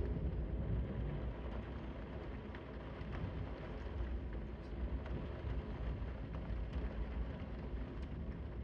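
Steady rain with a deep low rumble underneath and a few scattered drops ticking sharply.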